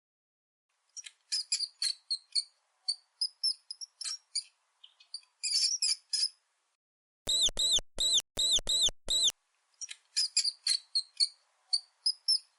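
Mouse squeaking: quick runs of high-pitched chirps and squeaks, with a row of about six louder squeaks in the middle, each rising and falling in pitch.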